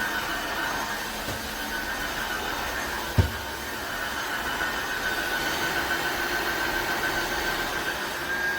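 Tineco iFloor 5 Steam wet-dry floor cleaner running steadily, its motor noise carrying a high, steady whine. There is a single low thump about three seconds in.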